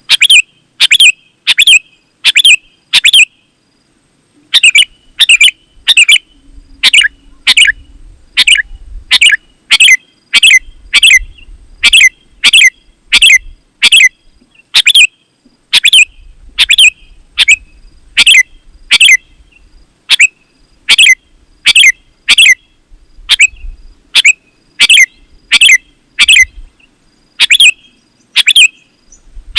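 Sooty-headed bulbul (kutilang) calling loudly: a short, sharp note repeated over and over, a little faster than once a second, with one short break a few seconds in.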